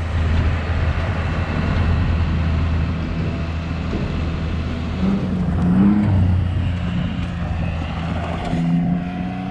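Tractor engine running steadily, with a brief rise and fall in pitch about five to six seconds in.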